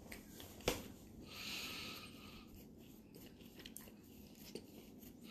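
Faint chewing and crunching of a chocolate-coated peanut wafer bar, with a sharp click about two-thirds of a second in and a soft breathy hiss around a second and a half in.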